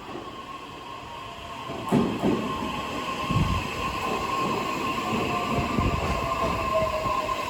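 Electric train pulling into the platform: the rumble of wheels on the rails builds from about two seconds in, under a steady high whine and a second tone that slowly falls in pitch as it slows.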